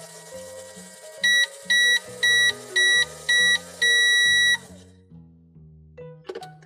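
Electronic timer beeping at one high pitch: five short beeps and then a longer one, the signal that a microwave's cooking is done. Background music plays underneath.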